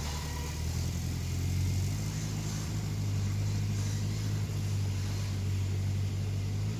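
An engine running steadily at low speed, a low hum that shifts slightly about two seconds in.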